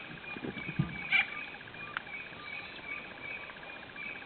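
Hyenas giving two short low growls in the first second, over a steady, evenly pulsed high chirping in the background.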